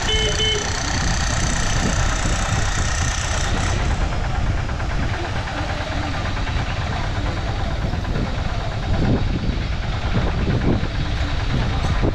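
Train noise: a steady low rumble with a hiss over it, and some thin high tones that die away about four seconds in.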